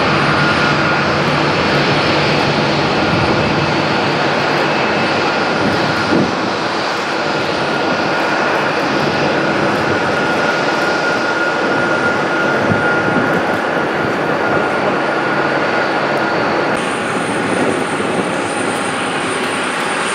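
Airliner engines running loud and steady: a broad rush with a high, steady whine. A higher thin tone joins near the end.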